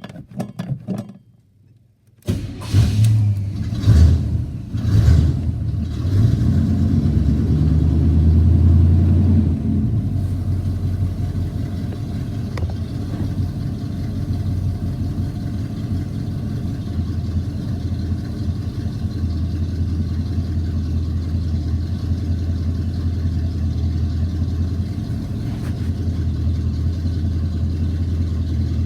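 1986 Chevy C-10's 305 small-block V8 starting about two seconds in, revved in a few quick blips, then running at a steady idle that settles a little lower about ten seconds in.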